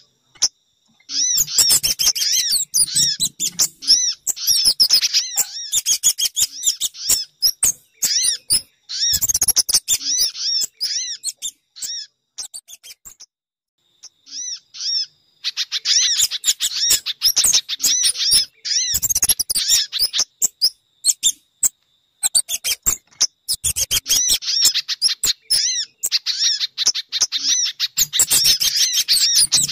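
Bird-lure recording (suara pikat) of sogon, spiderhunter and kemade calls: rapid, high chirping calls repeated in dense bouts, with a lull of a few seconds near the middle and a shorter break later. The calls are played to draw these birds in for trapping.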